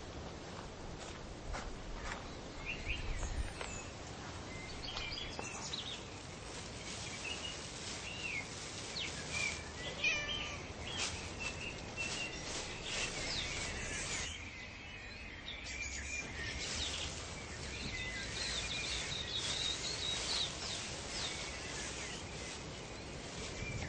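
Birds chirping and calling, many short high chirps, over a steady background hiss.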